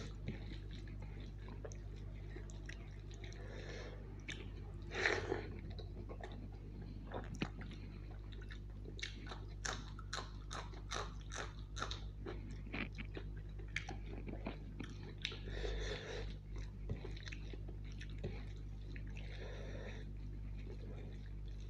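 Close-miked chewing of a mouthful of biryani rice and chicken curry, with many quick wet mouth clicks and smacks, densest in the middle, and one louder bite about five seconds in.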